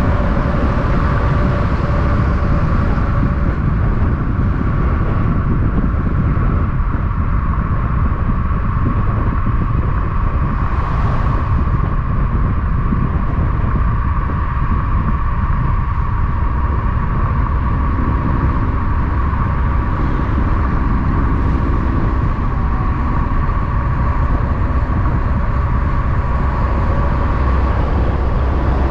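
Steady road traffic noise: a continuous low rumble and tyre hiss with a faint steady whine, and no single vehicle standing out.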